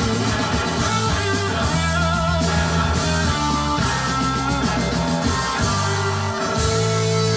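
Live rock band playing loudly, with guitar melody lines that waver in pitch over held bass notes.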